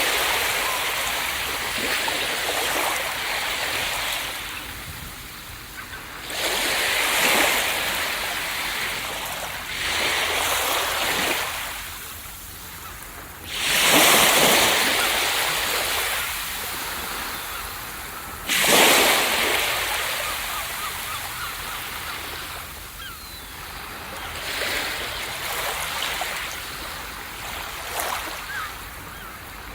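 Ocean waves breaking on a beach. Each breaker comes in as a sudden crash and then fades into a long hissing wash, about every four to five seconds. The loudest breakers come about halfway through.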